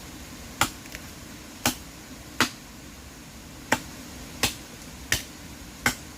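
Seven sharp single strikes of a hand tool, spaced roughly a second apart at an uneven pace, over a steady background hiss.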